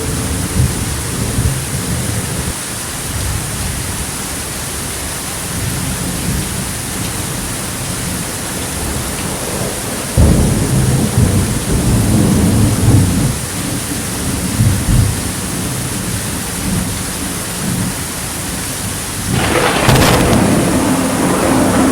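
Steady rain with rolling thunder: a low rumble starts suddenly about halfway through, and a louder thunderclap with a sharp crack comes near the end.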